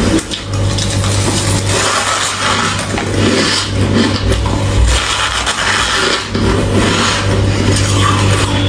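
Ice being chewed close to the microphone: loud, irregular crunching that goes on without a break.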